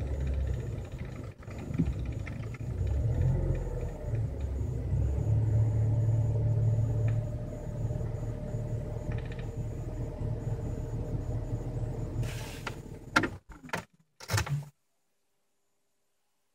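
Opel Vectra C car engine running at idle, a steady low rumble. Near the end come a few sharp knocks, then the sound cuts off suddenly.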